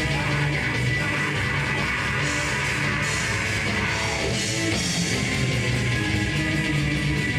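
A heavy metal band playing live: distorted electric guitars and a drum kit, with no vocals.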